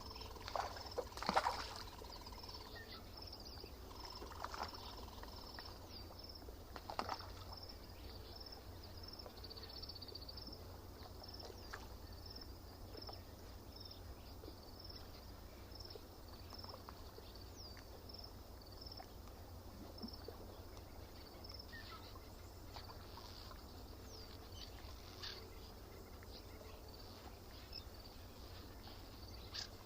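Faint lakeside nature ambience: a bird repeats a short high chirp over and over at an even pace, other birds call now and then, and a low steady rumble runs underneath. A few louder, sharper sounds come near the start and about seven seconds in.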